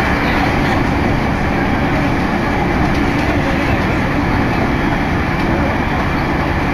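Steady running noise of a Takasaki Line electric commuter train at speed, heard from on board.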